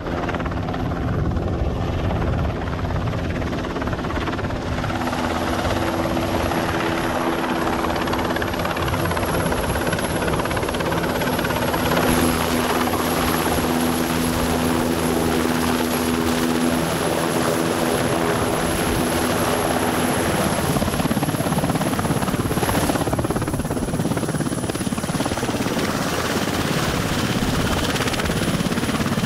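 Military helicopter running close by, a steady rotor and turbine noise with a high, constant turbine whine. A deeper steady hum joins it about five seconds in and drops away about two thirds of the way through.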